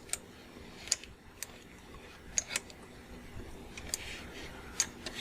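Scattered, irregular clicks from computer input at a desk, about seven over five seconds, over a faint steady background hum.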